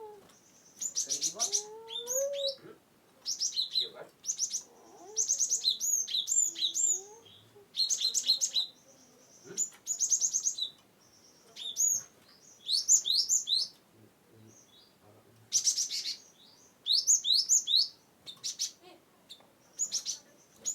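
Cinereous tit (gelatik batu) singing: bursts of rapid, high chattering notes, each about a second long, repeated with short pauses between them.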